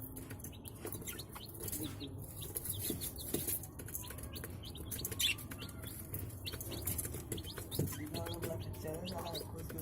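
Budgerigars chirping and chattering: many short, high chirps, with a busier warbling stretch near the end.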